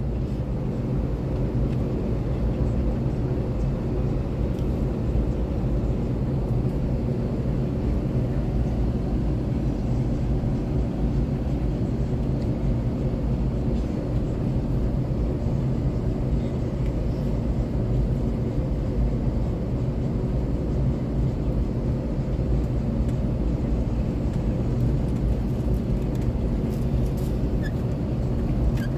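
Airliner engines heard from inside the cabin at takeoff: a steady low drone and rumble carrying several steady hum tones.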